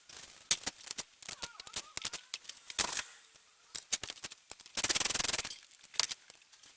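Hand tools and parts being handled during engine assembly: scattered clicks and knocks, with about half a second of rapid clicking roughly five seconds in.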